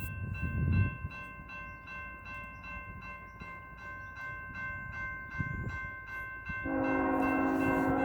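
Railroad grade-crossing bell ringing steadily, about two and a half strikes a second. About seven seconds in, the lead locomotive's air horn starts a long, loud blast over it.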